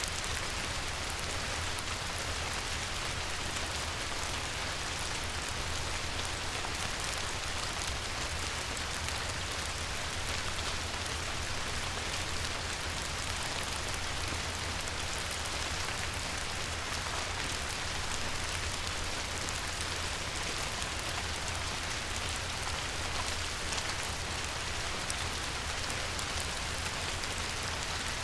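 Light rain falling on a river: a steady, even hiss of many small drops with a low, constant rumble underneath.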